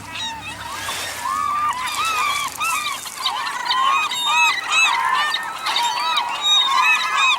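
A flock of gulls squawking in a feeding frenzy over dumped salmon scraps: many short, arching calls overlapping one another without a break.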